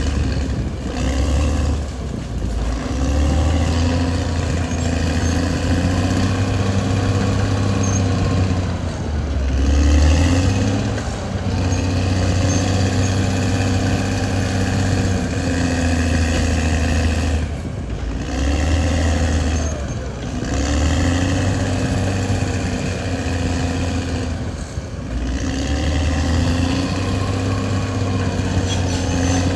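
Caterpillar D6R XL bulldozer's diesel engine running steadily, its pitch and loudness dipping and recovering several times as the load changes.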